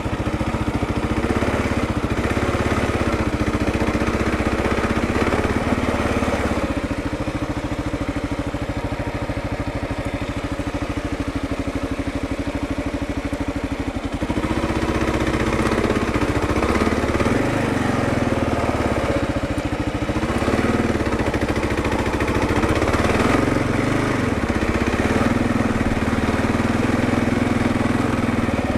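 Kawasaki KLR 650's single-cylinder four-stroke engine running as the bike is ridden, its pitch rising and falling with the throttle, with more swings in the second half.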